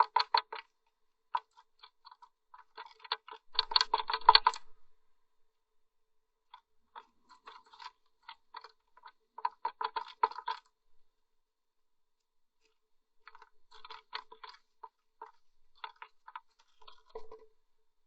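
Blue tit moving about in its nest: bursts of rapid scratching and tapping clicks in four spells with quiet gaps between, the busiest a few seconds in.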